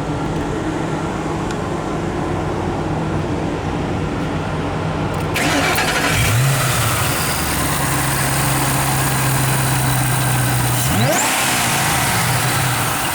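2007 Shelby GT500's supercharged V8 running at idle, with a short rise in revs about six seconds in and a quick, sharp rev blip near the end.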